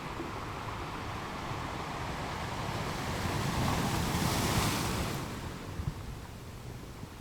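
Ocean waves on a shore: one wave builds from about three seconds in, breaks with a rushing hiss a little past the middle, then washes back and fades.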